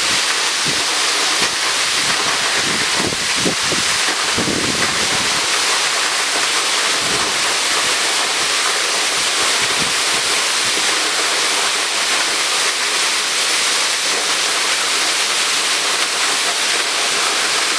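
Waterfall close up: a loud, steady rush of falling water. Low buffeting on the microphone comes and goes in the first five seconds or so.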